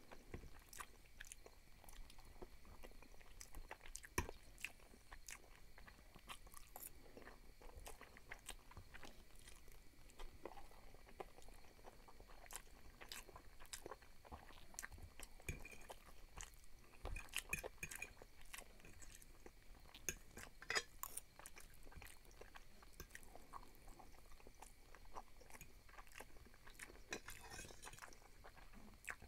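Quiet, close-miked eating sounds: chewing and biting on fettuccine in tomato sauce, with irregular small clicks and crackles. A metal fork now and then clinks and scrapes on a glass plate.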